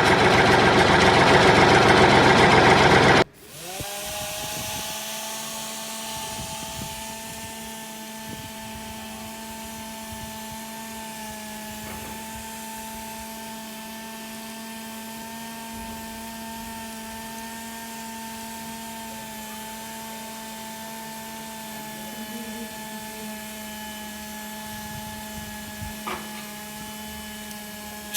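A loud mixed noise cuts off sharply about three seconds in. It gives way to the steady whine of the small electric motor driving a homemade model wheat-cleaning machine, running at constant speed with several steady tones.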